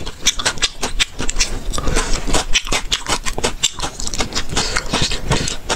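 Close-miked chewing of a mouthful of spicy, sauce-coated meat strips: a fast, irregular run of wet clicks, smacks and crunches from the mouth.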